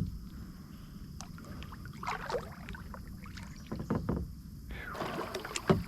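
Kayak paddle strokes in the water, a few splashing strokes about two seconds apart over a steady low rumble.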